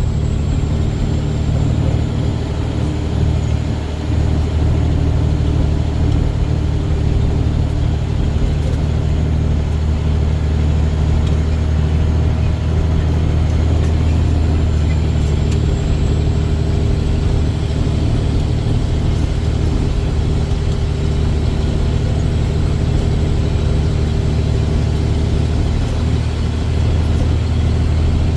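Dump truck's diesel engine running steadily while driving, a deep, even drone.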